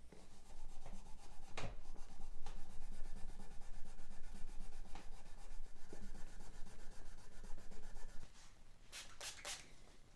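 Steady rubbing on a 12-string acoustic guitar, with a few light knocks and a quick run of sharp clicks near the end.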